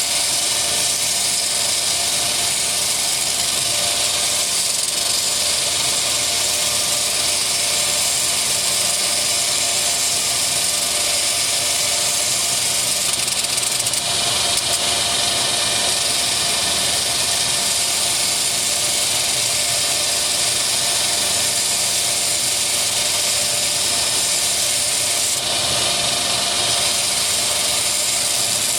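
Belt sander running steadily, grinding down the edge of a 3 mm brass plate: a continuous hiss of the abrasive belt on the metal over the steady hum of the motor.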